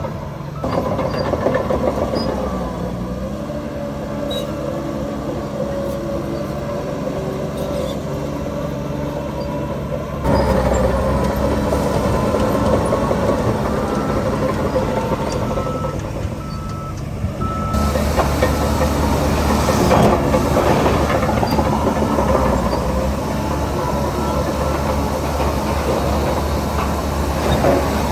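Heavy diesel construction machinery running steadily, bulldozer and dump-truck engines, with a reversing alarm beeping through the middle part. The sound shifts abruptly twice.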